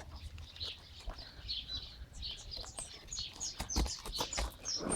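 Small birds chirping repeatedly in short high calls, with scattered sharp clicks among them.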